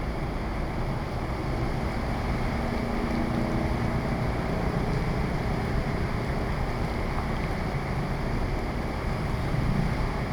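Strong wind buffeting the microphone in heavy rain: a steady low rumble over a constant hiss.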